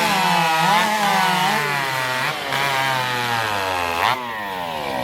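Two-stroke racing chainsaw at full throttle cutting through a log, its engine pitch sagging under load during the timed cut. About four seconds in there is a sharp knock as the cut finishes, and the engine winds down with falling pitch.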